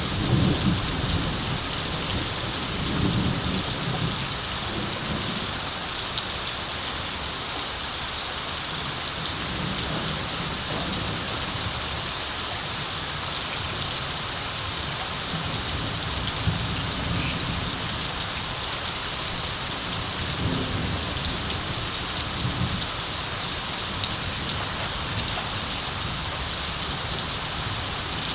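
Steady rain falling on surfaces, with distant thunder rumbling low in the background several times.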